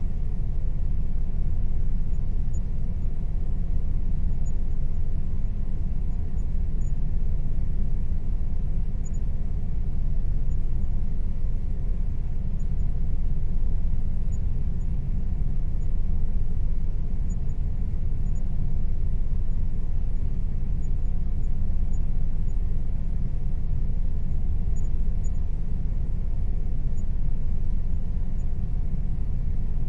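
Air conditioner running steadily, its sound mostly deep and low, with a faint steady tone above it.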